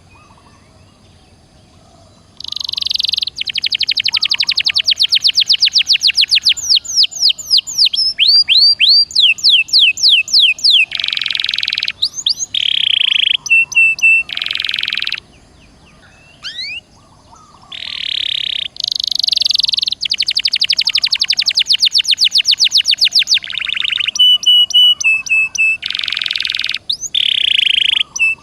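Domestic canary singing loudly in long, fast trilled phrases of rapidly repeated notes and buzzy rolls. The song starts a couple of seconds in and breaks off for about two seconds midway.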